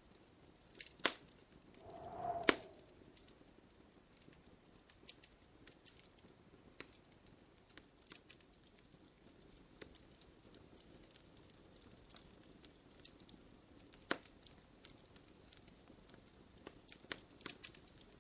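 Wood fire crackling in a fireplace: a steady scatter of small crackles with sharp pops about a second in, at two and a half seconds and again around fourteen seconds. A brief low call sounds about two seconds in.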